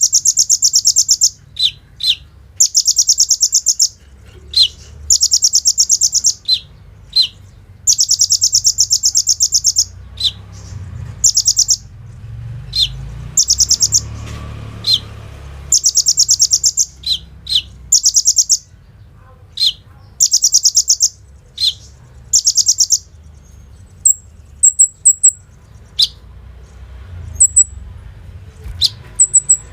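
Olive-backed sunbird singing: loud, rapid high trills about a second long, repeated many times, with short sharp single notes between them. In the last few seconds the trills stop and it gives only brief thin high chips.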